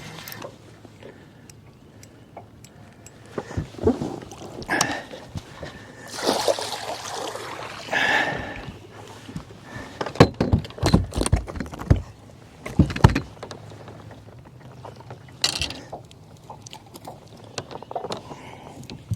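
Irregular splashing and knocking at a fishing boat as a hooked striped bass is brought in, with a run of sharp knocks from about ten to thirteen seconds in.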